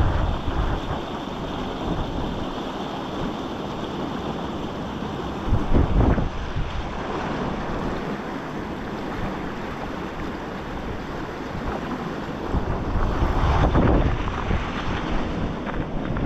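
River water rushing steadily through an opening in the ice, with wind buffeting the microphone in gusts about six seconds in and again near the end.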